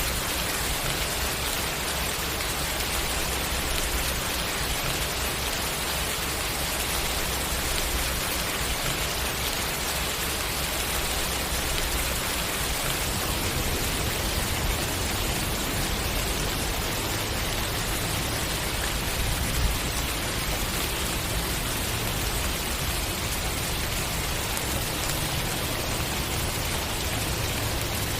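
Steady rain, an even hiss of falling drops with a faint low rumble underneath, and one brief louder knock about two-thirds of the way through.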